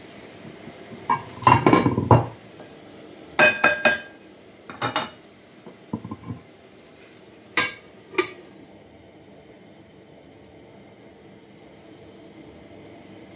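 Metal pots, lids and cooking utensils clattering and clinking as they are handled, in several separate bursts with a ringing metallic tone, over the first eight seconds or so. After that only a faint steady background remains.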